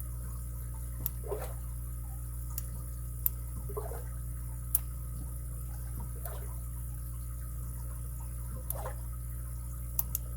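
Lock pick working the pins inside a padlock's keyway under tension: a few light, sharp clicks and short scrapes, spaced a second or more apart, over a steady low hum.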